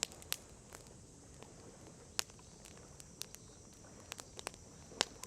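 Wood campfire crackling: irregular sharp pops and snaps, the loudest just after the start, about two seconds in and near the end, over a faint steady hiss.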